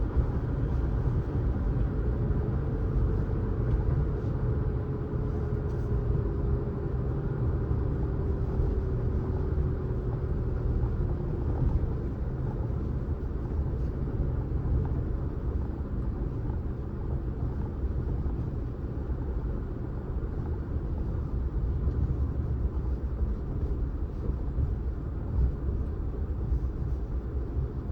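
Car driving: a steady low rumble of engine and road noise, with a faint whine that slowly falls in pitch over the first dozen seconds.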